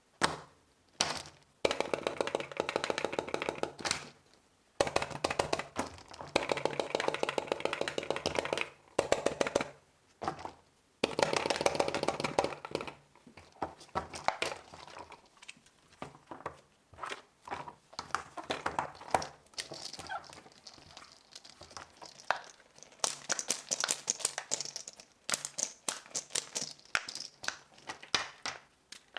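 Silicone pop-it fidget toys being pressed and handled, giving runs of rapid pops and clicks with some crinkling, the runs long and dense early on and sparser, scattered clicks later.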